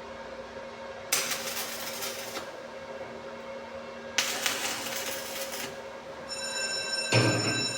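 Welding arc crackling in two short bursts of about a second and a half each, tack-welding a padlock. A steady high-pitched tone comes in near the end, followed by another loud burst.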